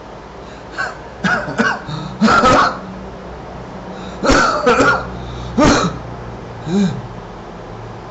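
A person clearing their throat and coughing in a series of short bursts, about six in all, over a steady low hum.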